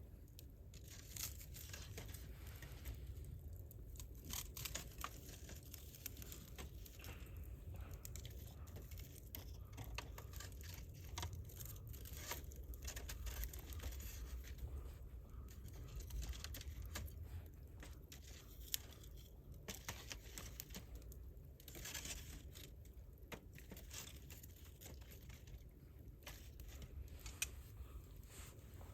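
Wood campfire crackling, with dense irregular pops and snaps over a low steady rumble. Two pops stand out as louder, one about two-thirds of the way in and one near the end.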